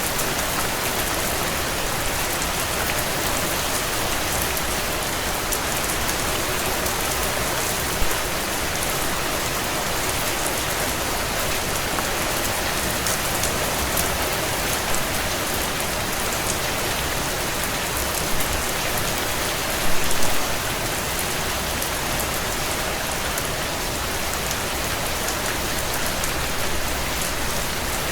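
Steady heavy rain against window panes, with a few sharp crackles and pops from a wood fire, the loudest about 8 and 20 seconds in.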